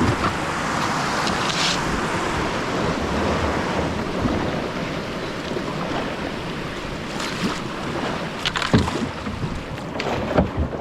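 Creek water rushing around a kayak, with a few sharp paddle strikes in the second half.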